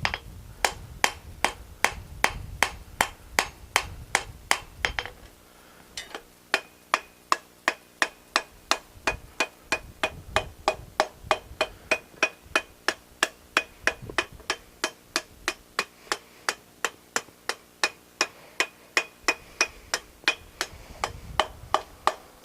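Blacksmith's hammer striking hot steel on an anvil in a steady rhythm of about three blows a second, with a short pause about five seconds in. The anvil rings between blows as the steel disc is hammered round and its edges are taken off. A low rumble runs under the first five seconds.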